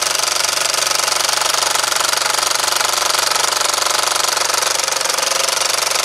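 Mamod model steam engine running at speed, a rapid, even chuffing and clatter.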